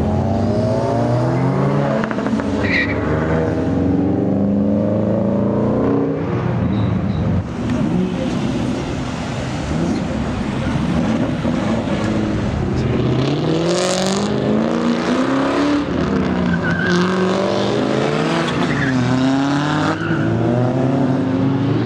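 Cars accelerating hard one after another, engine notes climbing in pitch and dropping back again and again as they rev up through the gears. A short high hiss cuts through about 14 seconds in.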